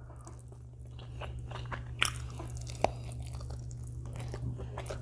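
Close-up chewing and crunching of crispy fried chicken, with scattered small mouth clicks and two sharp crunches about two and three seconds in.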